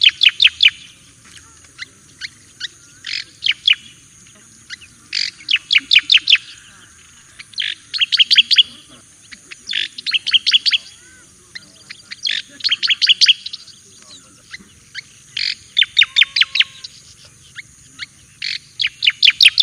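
Striated grassbird (cica koreng jawa) singing: a loud, repeated phrase of rapid, sharp falling notes, four to six to a burst, coming about every two seconds.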